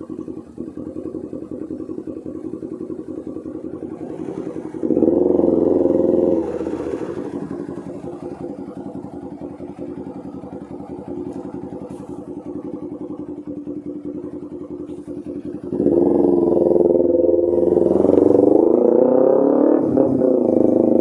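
Kawasaki Ninja 250R's parallel-twin engine through a loud aftermarket Austin Racing exhaust, running at steady low revs. The throttle opens and it gets louder for about a second and a half around five seconds in, then again from about sixteen seconds, with the pitch rising and falling.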